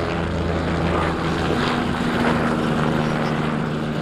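Propeller aircraft engine droning steadily as the plane flies by; the pitch of its tones shifts about a second and a half in.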